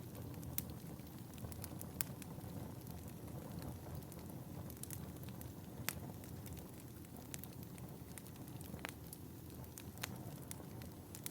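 Wood fire burning in a fireplace: a low, steady rush with irregular sharp crackles and pops, the loudest about two and six seconds in.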